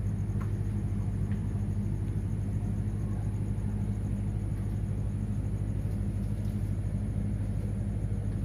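Steady low machine hum that holds unchanged throughout.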